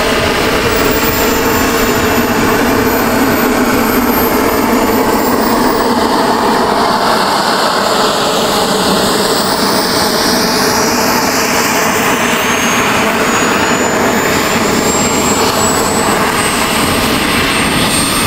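Turbine engine of a radio-controlled model jet flying past: a steady loud rush with a high thin whine that drops in pitch early on and climbs again in the second half.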